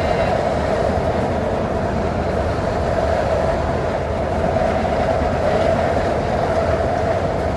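Tyne and Wear Metrocar heard from inside the car while running between stations: a steady rumble of wheels on the track with a constant hum above it.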